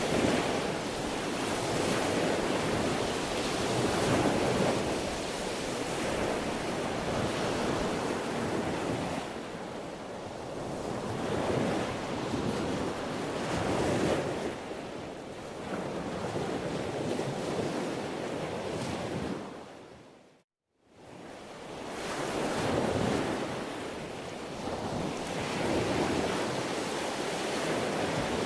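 Sea waves breaking and washing on a shore, the surf surging and easing every couple of seconds. About twenty seconds in it cuts briefly to silence, then fades back in.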